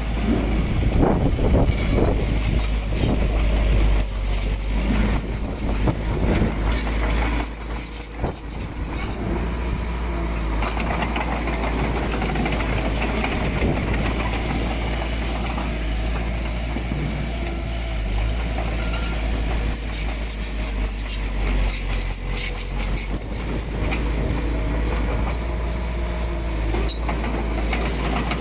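Diesel engine of heavy earthmoving machinery running steadily, with two spells of metallic clanking and rattling over the rumble.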